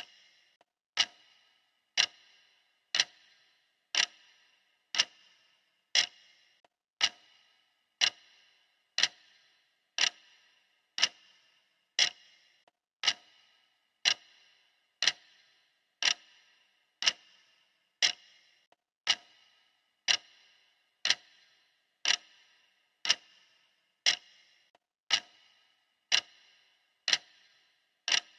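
Clock ticking steadily, one sharp tick a second, each with a short ringing decay.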